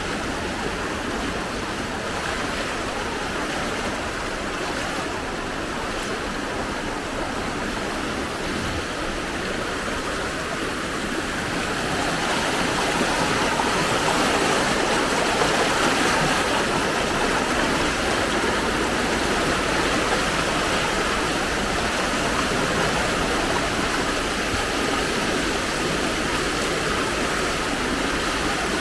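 Fast-flowing floodwater rushing in a steady roar, growing louder about twelve seconds in.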